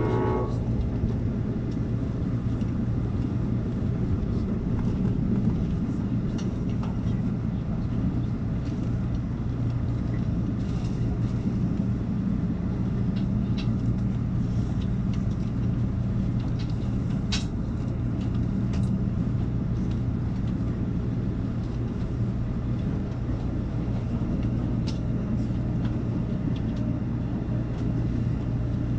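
Steady running noise of an Amtrak Cascades passenger train heard from inside the car: a constant low hum over the rumble of the wheels on the rails, with a few faint clicks.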